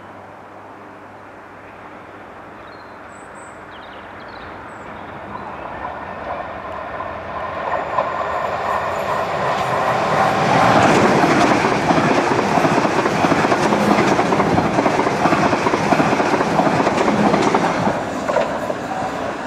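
South Western Railway Class 450 Desiro electric multiple unit approaching and running past on the track, getting steadily louder and loudest for most of the second half, with a faint whine under the rising rumble. The sound drops off shortly before the end.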